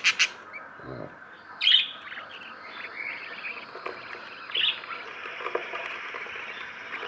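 Cage birds chirping: a run of short high chirps, with two louder calls, one about two seconds in and one past the middle.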